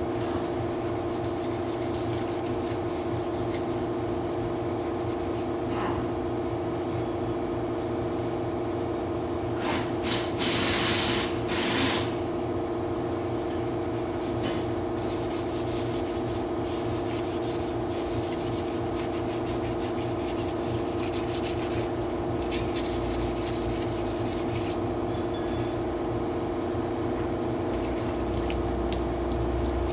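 Sanding on a pickup's body panel during dent repair, a steady rasping scrape, with louder strokes about a third of the way in. A steady machine hum runs underneath.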